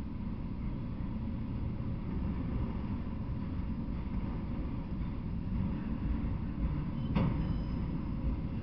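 Freight train of autorack cars rolling past: a steady low rumble of wheels on the rails, with one sharp clank near the end.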